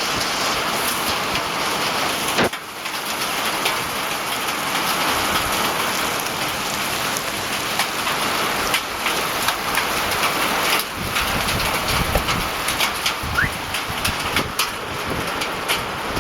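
Steady rain falling, with many separate drops striking close by as short clicks over an even hiss.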